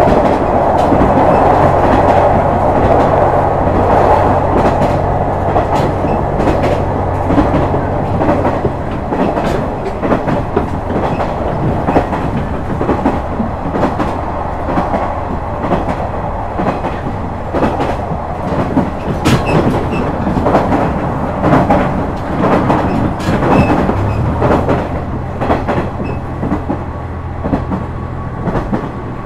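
Inside a KiHa 126 series diesel railcar running at speed: wheels clacking over rail joints amid a steady rumble of running noise. The diesel engine's low hum fades about nine seconds in as the car coasts, and comes back near the end as power is applied again.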